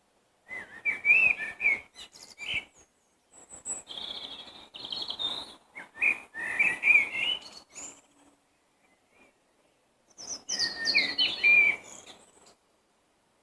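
Songbirds singing in spring: four phrases of quick, warbling, high notes, each about two seconds long, separated by short pauses with a longer pause near the end.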